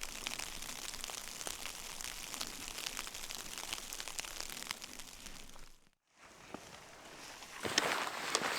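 Fine, dense pattering and crackling over a steady hiss, fading out about six seconds in; near the end, crunching footsteps in snow begin.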